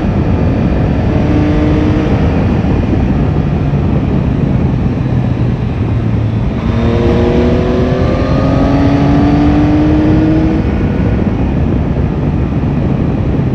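Yamaha Tracer 9 GT's inline three-cylinder engine running under way, mixed with heavy wind rush. About two-thirds of the way through, the engine note breaks off briefly and then rises steadily as the bike accelerates through the next gear.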